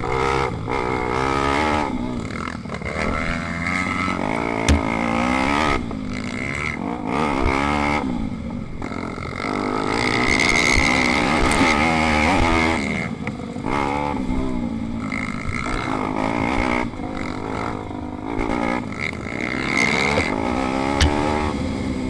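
Pit bike engine racing hard, its pitch climbing again and again and then dropping back sharply as it revs through the gears and backs off.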